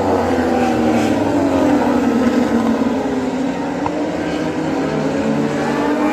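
Racing motorcycle engines running on the circuit: several overlapping engine notes that slide slowly down and back up in pitch as the bikes pass and change speed.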